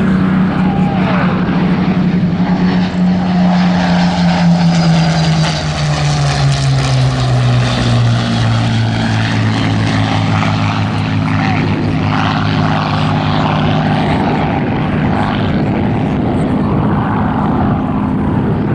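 Spitfires' Rolls-Royce Merlin V12 piston engines running as the pair flies by. The engine note drops in pitch about five to eight seconds in as they pass, then carries on as a steady, lower drone.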